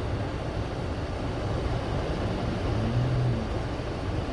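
A car engine running as a low steady rumble, rising briefly in pitch about three seconds in.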